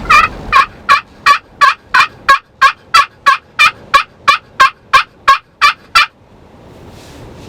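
A long series of about eighteen turkey yelps, evenly spaced at about three a second, that stops suddenly about six seconds in.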